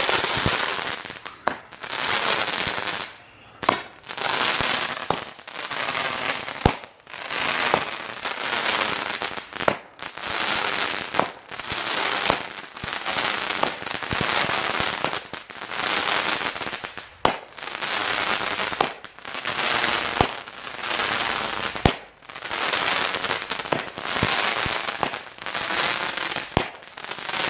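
Mighty Cobra 19-shot fireworks cake firing its tubes one after another, about one shot every second and a half. Each shot is a sharp launch thump followed by a second or so of crackling from the comet.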